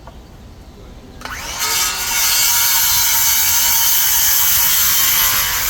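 Power saw spinning up with a rising whine about a second in, then cutting through a pressure-treated wooden board with a loud, steady rasp. Its motor tone sags slowly as the blade works through the wood.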